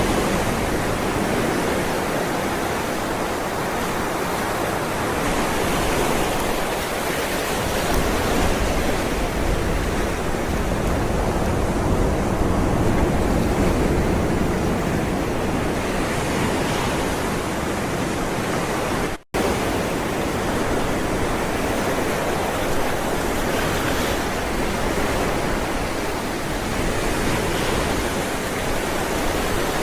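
Ocean waves rolling onto the shore: a continuous rush of surf that slowly swells and eases, broken by a split-second dropout about two-thirds of the way in.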